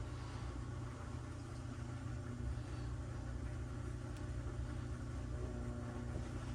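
Steady low mechanical hum running without change.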